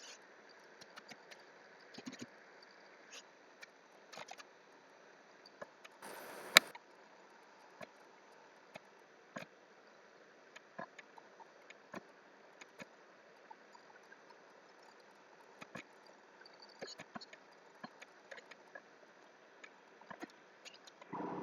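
Sparse, irregular clicks of a computer mouse and keyboard being worked. About six seconds in comes a short scuffing noise that ends in one loud sharp knock.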